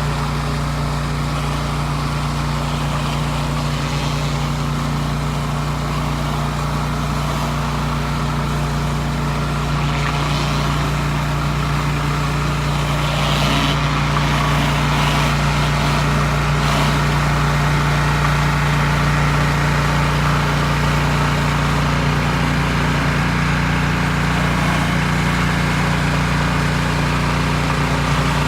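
Pressure washer engine running steadily at constant speed while the washer sprays, a low even hum with a hiss of noise over it.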